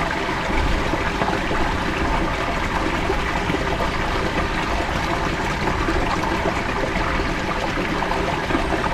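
Steady rush and slosh of water close to a camera's microphone, as the camera lies in lake water.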